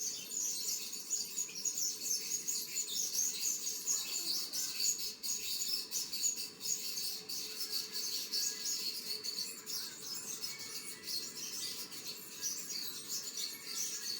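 Many small birds chirping and twittering continuously, a dense chatter of short high chirps.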